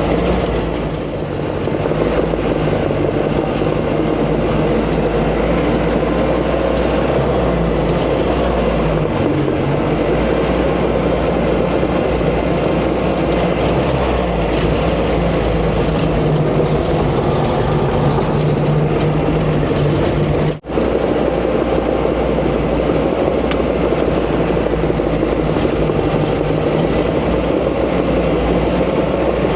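Diesel engine of heavy earthmoving equipment running steadily under load, its pitch rising and falling a little as the machine works, with a brief dropout about two-thirds of the way through.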